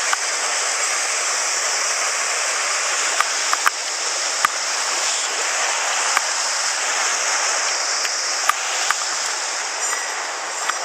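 Rushing water of a mountain headwater stream, a steady even rush, with a few short sharp clicks scattered through.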